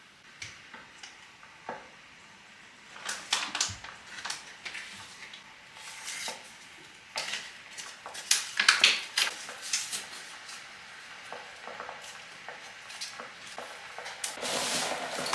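Dishes and cutlery being handled, clinking and clattering in irregular knocks, with a steady hiss starting near the end.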